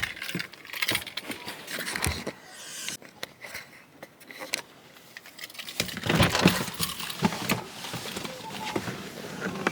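Handling noises from leaving a car: scattered jingling and clicking, with a louder run of knocks and rustling about six seconds in.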